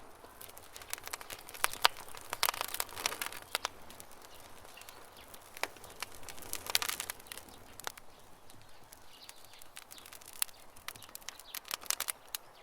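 Campfire crackling: wood snapping and popping in irregular clusters of sharp clicks over a soft hiss, with faint birdsong.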